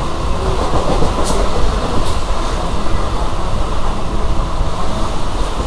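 Local train running at speed, heard from inside the coach: a loud, steady rumble of wheels on rail. Two brief high hisses come about one and two seconds in.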